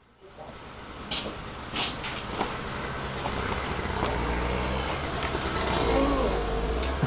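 Blizzard wind blowing across the microphone: a low rumble under a rushing hiss, with two short gusts of hiss in the first two seconds.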